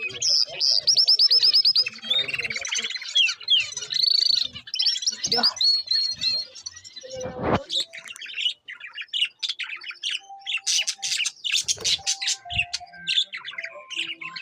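Small birds chirping: a fast run of high, evenly spaced chirps about a second in, then many short, high chirps and calls.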